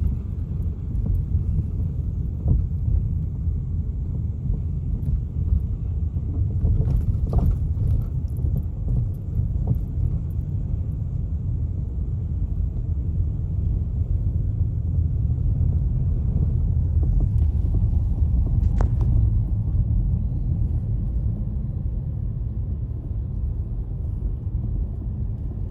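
Car driving: a steady low rumble of engine and tyres on the road, with a few faint clicks about seven seconds in and again near nineteen seconds.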